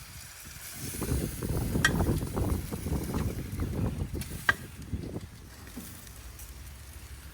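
Sausages and lyulya kebabs sizzling and crackling on a charcoal grill, busiest in the first half. Two sharp clicks come about two and four and a half seconds in.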